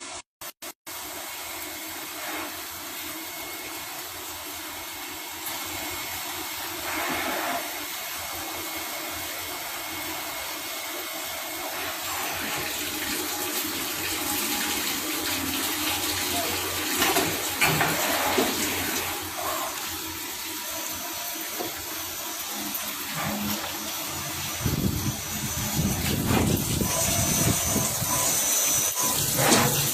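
Toyosk TVT-301S CNC tap/drill center running, a steady rushing noise with faint steady machine tones. Louder bursts come around the middle and again near the end, and a faint pulsing high tone sets in past the middle.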